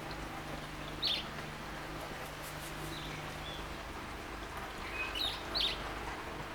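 Wild garden birds giving short high chirps: one about a second in, faint ones midway and a louder pair near the end. Under them runs the steady splashing of a bird bath fountain's flowing water.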